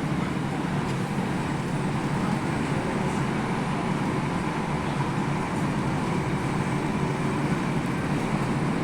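Steady running noise inside a diesel passenger train moving at speed: an even, continuous rumble of the wheels on the rails and the underfloor engine.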